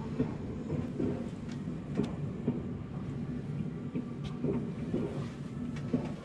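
Train rail sound: a steady low rumble with scattered clanks and knocks from the railway cars.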